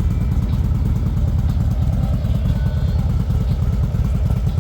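Car engine running at a steady idle, its exhaust a low, rapid pulsing rumble with no revving.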